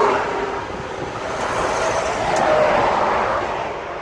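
Road traffic going past, the tyre and engine noise swelling twice as vehicles pass.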